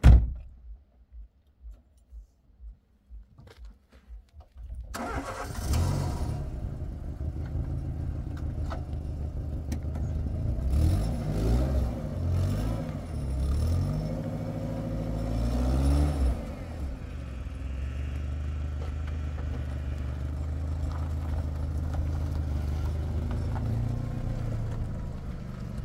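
A car door shuts with a sharp thump. About five seconds later the Renault Logan's engine starts, revs up and down several times, then settles to a steadier run as the car pulls away.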